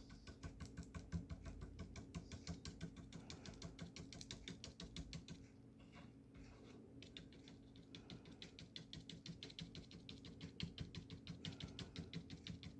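Stiff bristle brush dabbing gouache onto paper: rapid, even light taps, several a second, with a short pause about halfway.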